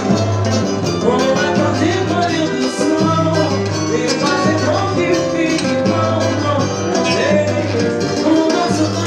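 Latin American music played by a small band: a gliding melody over a steady bass line, with regular percussion strokes.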